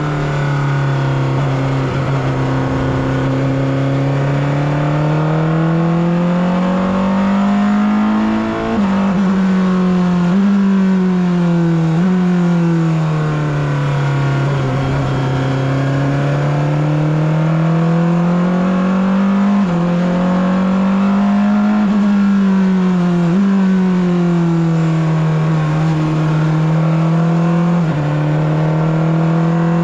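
Porsche 963 RSP's twin-turbo V8, heard onboard, pulling at moderate revs with its pitch rising and falling through the corners. The pitch jumps abruptly several times, at about 9, 10, 12, 20, 23 and 28 seconds in, as gears are shifted.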